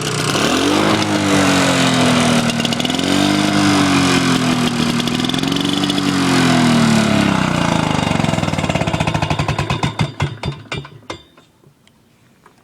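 Lawn tractor's small engine running, its speed rising and falling a couple of times, then slowing through separate, spreading-out firing beats and dying about eleven seconds in: it is shutting down after its spark plug wire is pulled.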